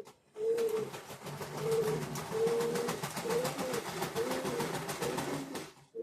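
Model train locomotive's small electric motor and gear train running under load, with a wavering whine over rapid clicking, as it strains to pull heavy all-metal cars. The owner suspects a broken gear.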